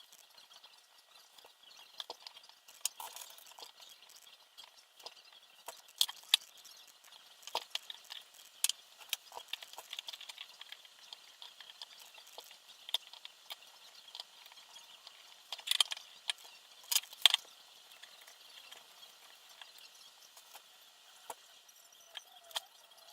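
Irregular light clicks and taps of small parts and hand tools being handled during the assembly of a multirotor frame, with a few sharper knocks about six seconds in and again near sixteen and seventeen seconds.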